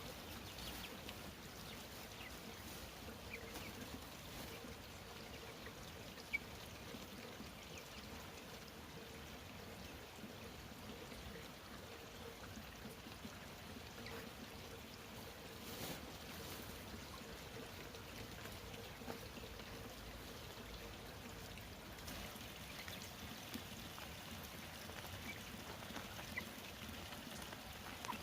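Faint, steady running water trickling, with a few small clicks and a thin steady hum under it that fades out after about twenty seconds.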